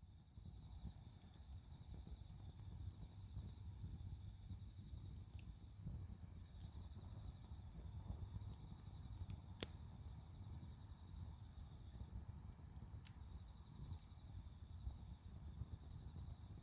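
Dry firewood burning: a low, steady rumble of flames with scattered sharp crackles and pops, the loudest about ten seconds in.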